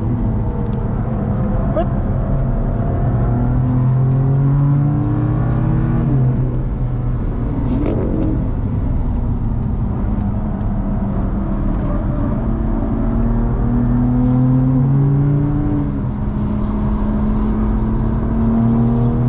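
BMW M2's turbocharged straight-six heard from inside the cabin under hard acceleration on track, its note climbing through the revs and dropping sharply at each upshift, about three times, over steady tyre and road rumble.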